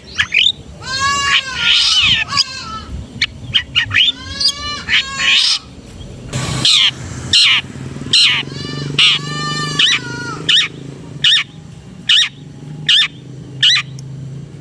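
Long-tailed shrike (cendet) singing a varied, harsh chattering song of mimicked calls: raspy rising-and-falling phrases mixed with sharp chips. In the second half it gives a run of single sharp chips a little under a second apart.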